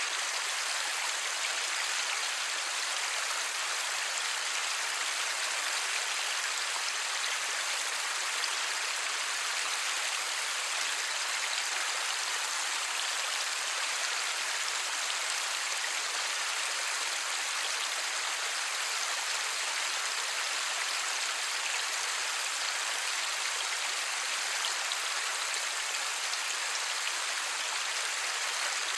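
Light, steady rain falling: an even hiss of many small drops with no thunder and no single drop standing out.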